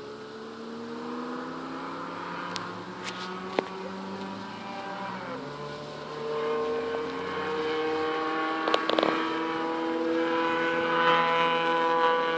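Car engine lapping a race circuit, revving up through the gears with a drop in pitch about five seconds in, then holding a higher note and growing louder as it draws nearer. A few sharp clicks sound over it.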